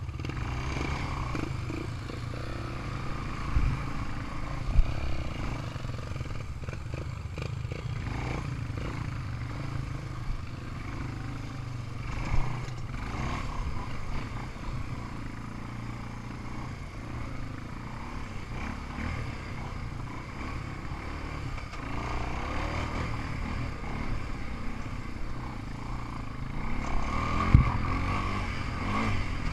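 Single-cylinder off-road vehicle engine running at low, steady speed, with a few sharp knocks and some clatter.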